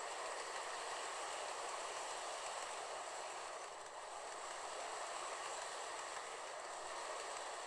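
HO gauge model freight train, hauled by an EF210-100 model electric locomotive, running along the track with a steady rolling hum of wheels and motor that dips slightly about four seconds in.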